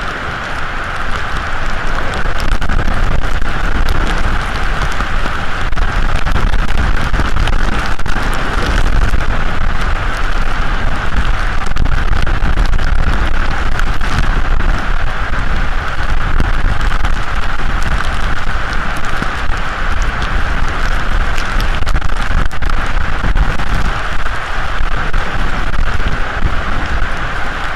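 Steady heavy rain in a storm, with many individual drops striking close by and a low wind rumble underneath.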